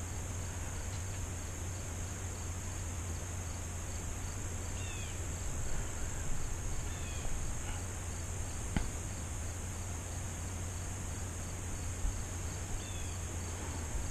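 Crickets and other insects trilling steadily, with a regular pulsing chirp. A few short, high falling chirps come through about five, seven and thirteen seconds in, and there is a single sharp click near nine seconds.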